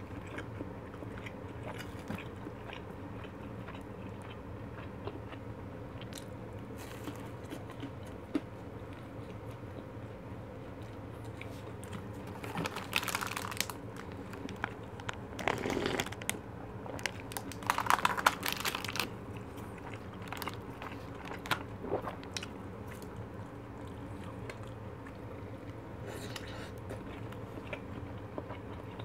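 Close-miked chewing and crunching of Korean fried foods and fish cake, with small clicks throughout and a few louder bursts of noise about halfway through, when the plastic takeout tray is lifted and handled. A steady low hum, from an electric fan, runs underneath.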